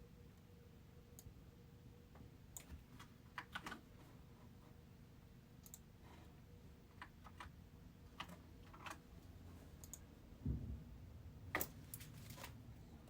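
Faint, scattered clicks of typing on a computer keyboard, irregular rather than a steady run, with a dull low thump about ten and a half seconds in.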